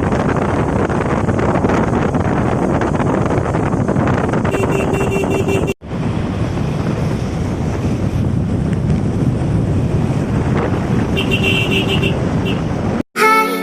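Wind rushing over the microphone with road and vehicle noise while riding a motorcycle, briefly cut off about six seconds in. Short steady tones sound twice. Music starts right at the end.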